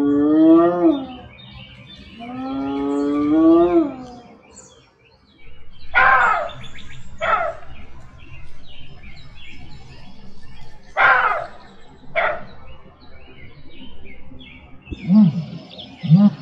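Two long whooping calls of a spotted hyena, each rising and then falling, followed by two pairs of short, sharp falling yelps of a jackal over faint birds twittering. Low calls start near the end.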